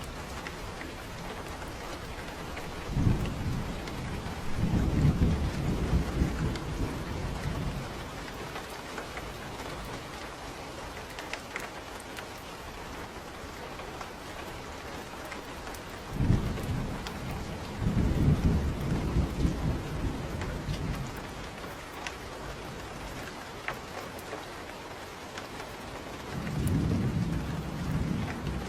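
Steady rain falling, with low rolling thunder that swells and fades three times: a few seconds in, about sixteen seconds in, and again near the end.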